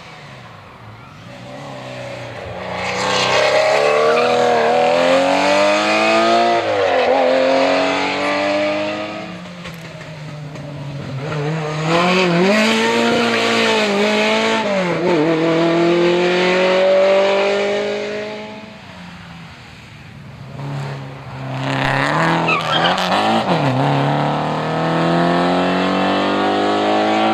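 Historic rally car engines run hard at full throttle, revs climbing and dropping back sharply at each gear change, in three loud spells that each swell and fade.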